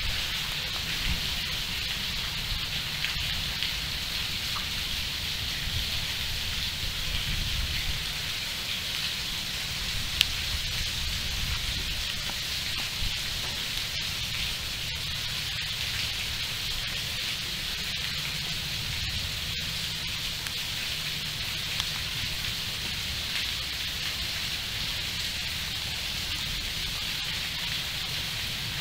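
Steady rain falling on trees and leaves: a continuous even hiss with scattered faint drop clicks and a low rumble underneath.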